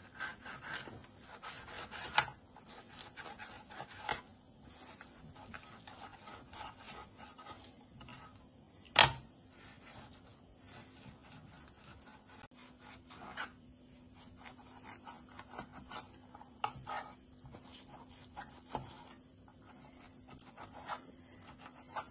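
Handling noises: irregular rubbing and scraping with scattered light clicks and one sharp knock about nine seconds in, over a faint steady hum.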